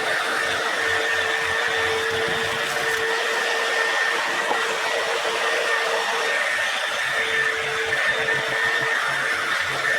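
A small electric motor tool running steadily, giving a continuous whine over a rushing hiss; the lower whine fades out about nine seconds in.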